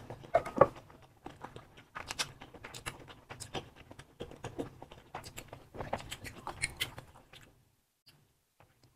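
Close-miked chewing of soft sausages in sauce: many quick wet mouth clicks and smacks. It stops a little before the end.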